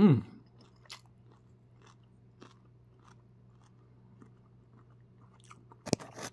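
Close-up chewing and mouth sounds of a person eating shrimp fried rice, faint and scattered small clicks. It opens with a falling hummed "mmm", and two sharper clicks come near the end.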